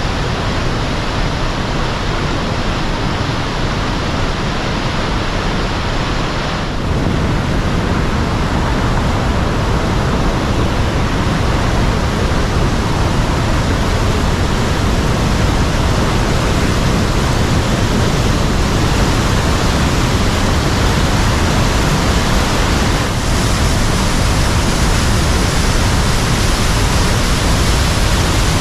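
Powerful waterfall: a loud, steady rush of falling water with no break, shifting slightly in tone about seven seconds in.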